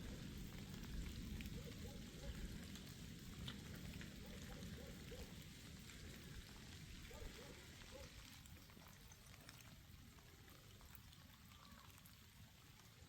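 Faint steady rain with scattered drips, slowly growing quieter.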